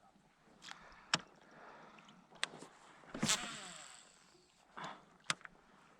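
Handling noises in a fishing kayak: a few sharp knocks on the hull and gear, two soft swishes, and one louder rushing sound a little past the middle that fades quickly.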